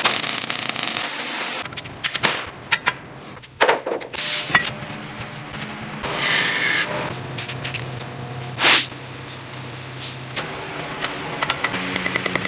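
Steady hiss for about the first second and a half, then a run of scraping and rubbing noises with sharp clicks over a faint low hum.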